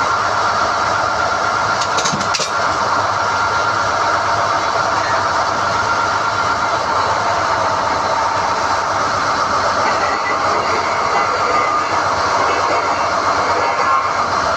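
SDH-1600 core drilling rig running steadily under load while hoisting NQ drill rods, a loud, even machine noise with a steady whine in it. A brief metallic clatter comes about two seconds in.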